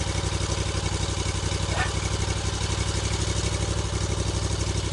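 An engine idling steadily with an even low pulse, with a brief high chirp about two seconds in.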